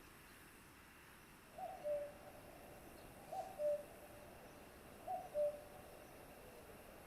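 A bird calling three times, evenly spaced, each call two clear low notes with the second lower than the first.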